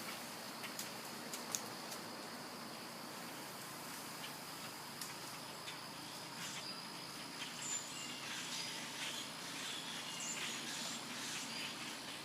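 A large flock of birds calling together in the trees: a dense chorus of many short, overlapping high chirps, busier in the second half, over a steady high-pitched hum.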